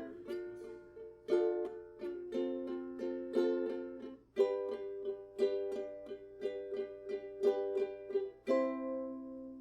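Outro music: ukulele strummed in a steady pattern of chords, about one a second, with the last chord left ringing out near the end.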